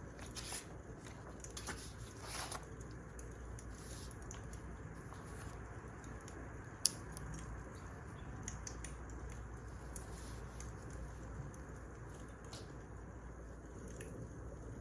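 Wood fire crackling softly over a low steady rumble, with scattered small pops and one sharper pop about seven seconds in.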